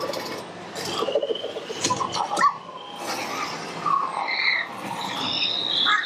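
Chirping, squawking animal-like calls: many short rising and falling whistles over a steady background hubbub.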